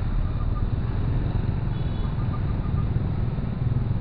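Motorcycle running while being ridden in traffic: a steady low engine rumble and wind noise on the rider's microphone, with two short runs of faint rapid pips.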